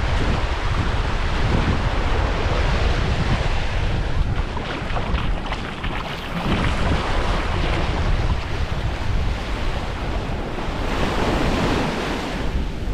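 Wind buffeting the microphone in a low, uneven rumble over small waves washing onto the beach.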